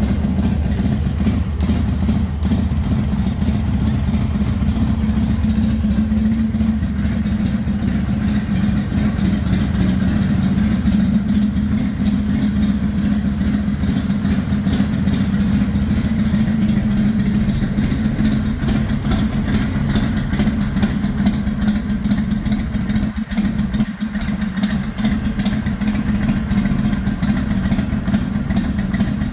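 Harley-Davidson Sportster XL883L's 883 cc air-cooled V-twin engine idling steadily.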